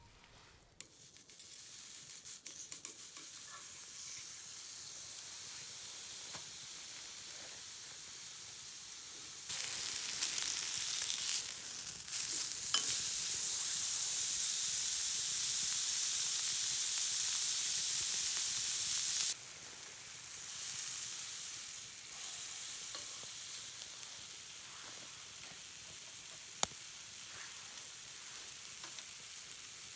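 Food frying in a pan over a campfire, sizzling steadily. The sizzle grows louder about ten seconds in, holds for about ten seconds, then drops back. A single sharp tick near the end.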